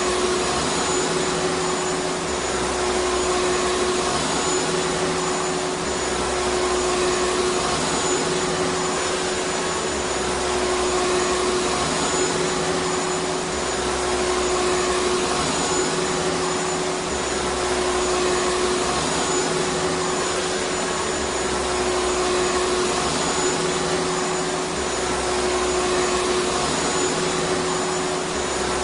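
Vacuum cleaner motor running continuously: a steady, even rushing hiss with a constant hum, with no change in speed.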